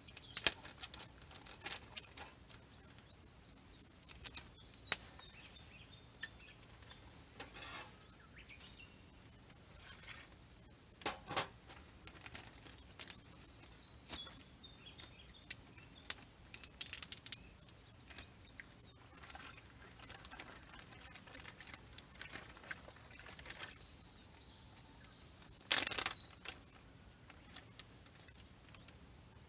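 Wood campfire crackling, with scattered sharp pops and a few louder rustling bursts, the loudest near the end. Under it runs a steady, pulsing high insect trill.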